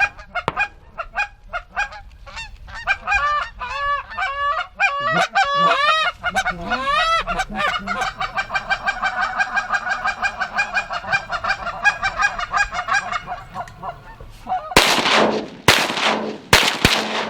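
Geese honking in a rapid, overlapping chorus of calls, then several quick shotgun blasts close together near the end.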